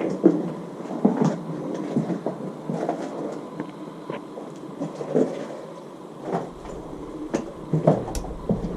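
Irregular footsteps and scuffing knocks, one every half second to a second or so, with a cluster of louder knocks near the end.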